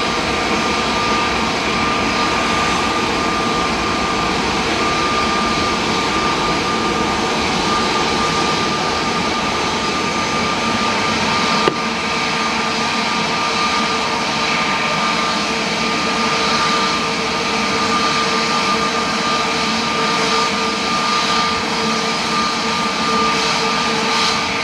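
Jet airliner engines running steadily: a constant rushing noise with a steady high whine through it, and a single sharp click near the middle.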